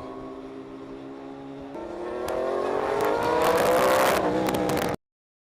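A racing engine at a steady note, then accelerating, its pitch rising and growing louder from about two seconds in, with sharp crackles near the top, until the sound cuts off abruptly near the end.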